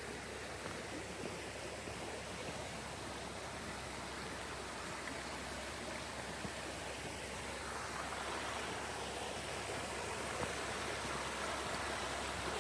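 Creek water running, a steady rushing that grows a little louder about two-thirds of the way through.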